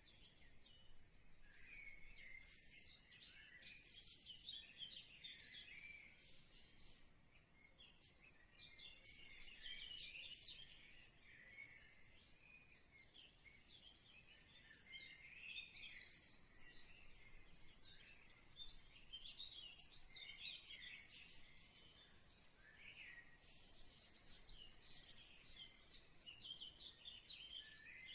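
Faint birdsong: many small birds chirping and twittering in quick, overlapping calls without a break.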